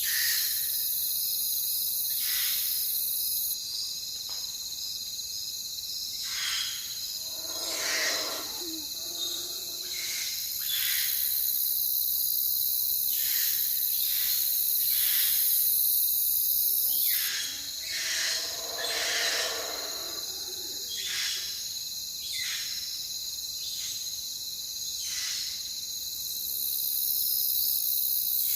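Night chorus of crickets trilling steadily, the highest trill stopping and starting every few seconds. An owl hoots twice, lower-pitched, about eight seconds in and again about two-thirds of the way through.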